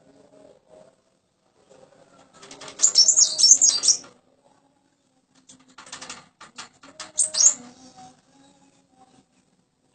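Common iora (cipoh) calling in two bursts of quick, high twittering notes, the first about two and a half seconds in and a shorter one around seven seconds. Between them comes a run of sharp ticks.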